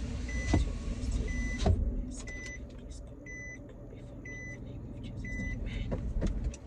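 Car's warning chime beeping steadily about once a second over the low hum of the car, with a few sharp knocks about half a second in, near the two-second mark, and near the end.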